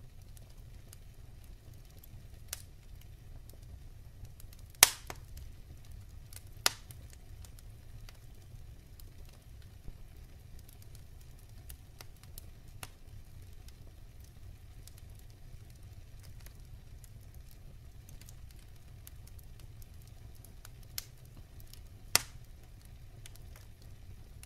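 Wood fire burning in a fireplace: a steady low rumble of the flames with scattered soft crackling, and a few sharp pops of burning logs, the loudest about five seconds in and near the end.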